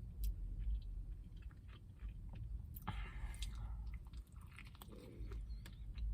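Close-up chewing of a mouthful of Burger King spicy hand-breaded chicken sandwich, with many small crunchy clicks from the breading.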